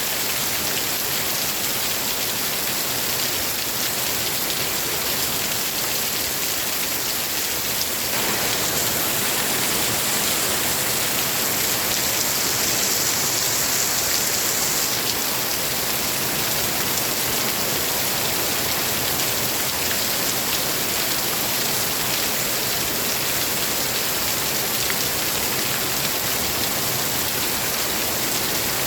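Steady rain falling, an even dense hiss of drops that gets a little heavier about eight seconds in.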